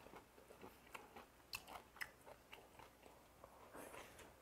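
A person chewing a mouthful of raw goby and vegetables in cold soybean-paste soup (mulhoe), faintly, with a scatter of small crunching clicks.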